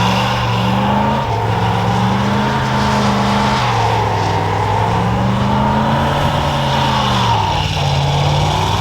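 A truck doing a burnout: the engine is held at high revs, rising and falling slowly, while the spinning rear tires scream against the pavement.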